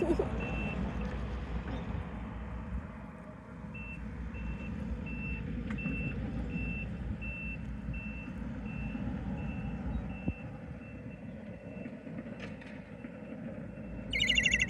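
A vehicle's reversing alarm beeps steadily, about twice a second, over a low engine rumble. Just before the end there is a short, loud, high-pitched call from a young gull.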